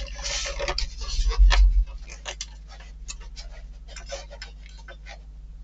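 Small bolts being handled and screwed into a model engine kit: a run of irregular light clicks and ticks, with a low thump about a second and a half in. A faint steady hum runs underneath.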